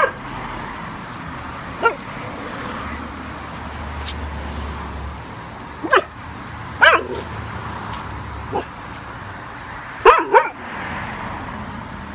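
A dog barking in alarm at a strange object: single sharp barks every second or few, about six in all, with a quick double bark near the end.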